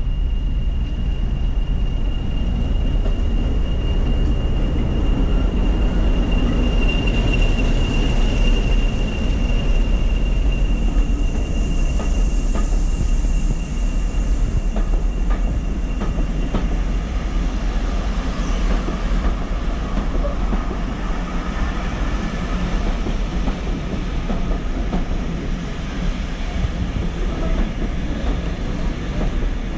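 Train running on heritage railway track with a steady low rumble. A thin, high, steady wheel squeal runs through the first half and then fades, and faint rail clicks come later.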